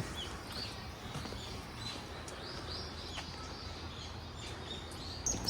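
Small birds chirping repeatedly with short, high chirps over a steady low background hum.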